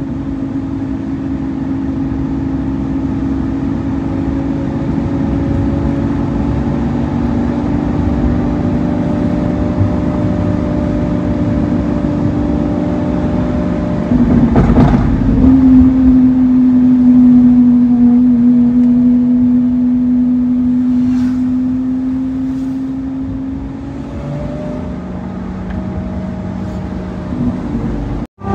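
Car engine running at steady revs with a held, even tone. Its sound steps up abruptly to louder about halfway through, then settles to a lower pitch a few seconds before the end, where it cuts out briefly.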